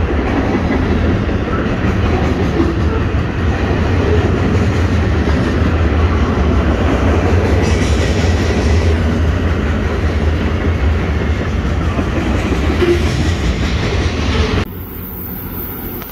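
Freight train cars rolling past at close range: a loud, steady rumble and rattle of steel wheels on the rails. About a second and a half before the end it cuts off suddenly to a much quieter, thinner sound.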